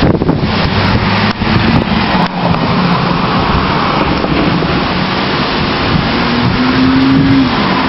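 A police car driving past, its engine note climbing and then dropping near the end as it goes by, over wind rushing across the microphone.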